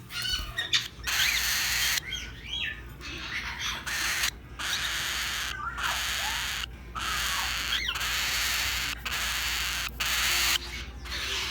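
Pet parrots and macaws squawking: a string of loud, harsh screeches each a second or two long, with shorter chirps and whistles sliding in pitch between them.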